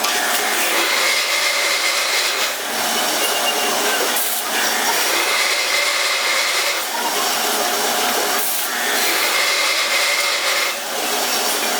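Power drill boring a hole for a model steam engine part, the bit running with a steady high whine that eases off briefly every two seconds or so as the drill is backed out and fed in again.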